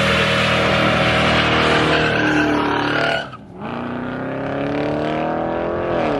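A car's engine held at high revs with tyres squealing and spinning, as in a burnout or donut. The engine drops off sharply about three seconds in, then revs climb steadily again and fall away near the end.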